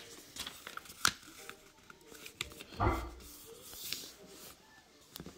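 A sheet of paper being handled and folded: rustling and creasing, with a sharp click about a second in and a dull thump near the middle.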